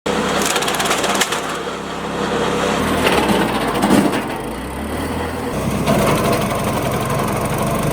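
ARPAL branch-logger wood chipper running while it feeds and cuts dry branches into firewood pieces, the wood cracking and splintering over the steady hum of the machine.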